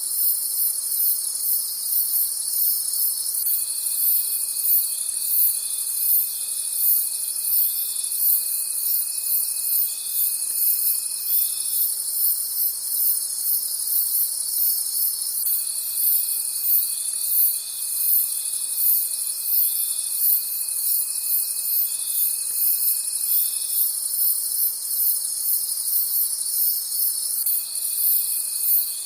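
Night chorus of crickets chirping: a dense, fast-pulsing high chirring throughout, with a lower, steady trill that comes in for several seconds at a time and stops in between, three times.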